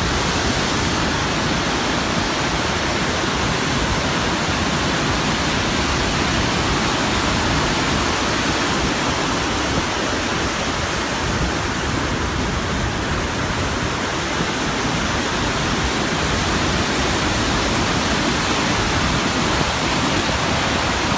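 The Rhine Falls: a large waterfall pouring, a loud, steady rush of water with no breaks.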